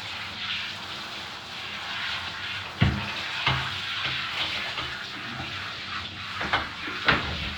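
Tap water running steadily during a dog's bath, with several sharp knocks, the loudest about three seconds in and again near the end.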